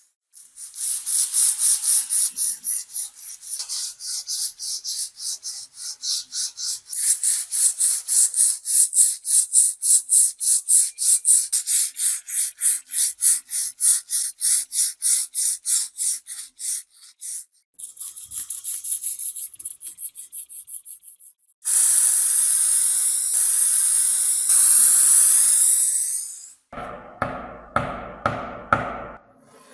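Hand rubbing of an abrasive on the knife, in even back-and-forth strokes about three a second, like sanding or honing. Later it turns into longer continuous scraping and then a different rhythm near the end.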